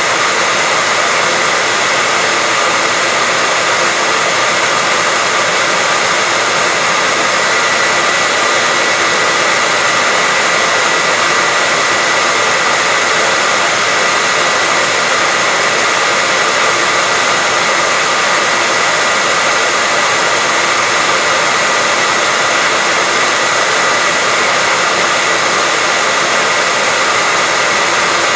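Electric hair dryer running steadily: a constant, even blowing noise with a steady high whine, as white noise for lulling a baby to sleep.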